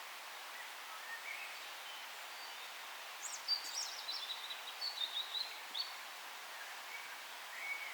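A songbird sings a rapid twittering phrase of high notes for about three seconds over a steady forest hiss. A few softer, lower chirps come before it, and one short call near the end.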